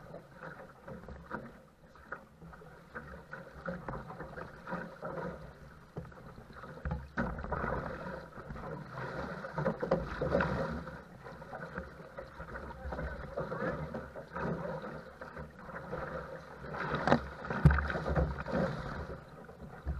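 Choppy wind-blown water slapping and splashing against a paddle craft as it is paddled, in uneven surges. A few sharper splashes come near the end, and gusts of wind rumble on the microphone now and then.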